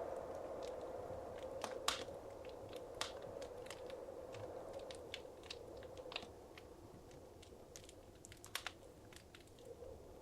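Wood fire crackling in a fireplace: irregular sharp pops and snaps over a soft steady hiss, with louder pops about two seconds in and near the end.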